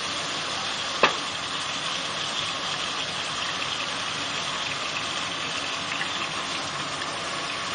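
Food sizzling steadily as it fries in oil in a pan, with a single sharp clink about a second in.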